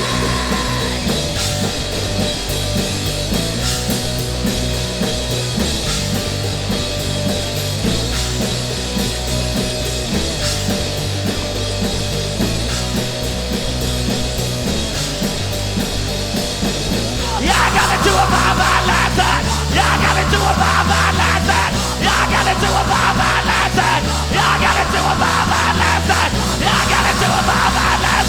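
Rock band playing an instrumental passage, with electric guitars, bass and drums and no vocals. About 17 seconds in the sound thickens and gets louder, as a heavier guitar part comes in.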